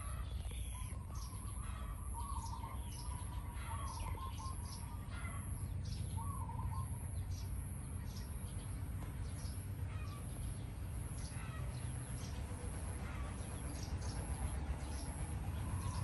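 Birds chirping: many short, high chirps throughout, with a warbling twitter in the first half, over a steady low rumble.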